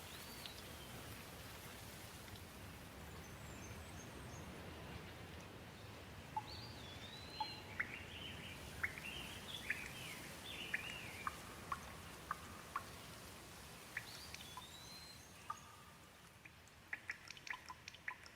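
Gentle steady rain with birds chirping now and then over it: short rising and falling calls, busiest in the middle. Scattered sharp drips come near the end.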